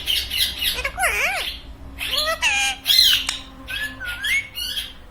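Pet parrot squawking and calling in a quick series of short calls, some arching up and down in pitch like a cat's meow, which it imitates.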